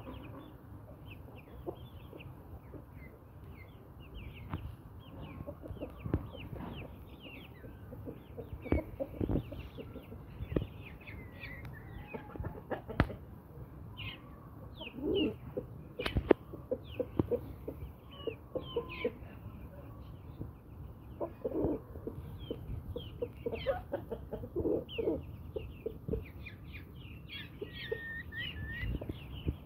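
Brahma chickens clucking in short bursts, with many quick high chirps throughout and a few sharp knocks.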